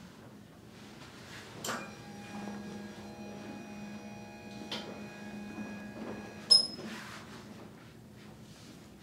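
A click, then a steady mechanical hum for about five seconds that ends with a sharp, loud click.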